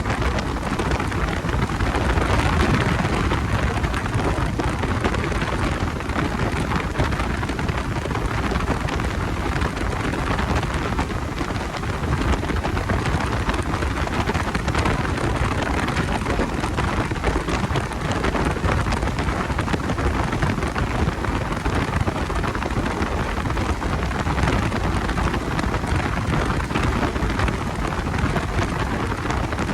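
Steady loud rushing of wind and road noise on the microphone of a motorcycle being ridden, with no clear engine note standing out.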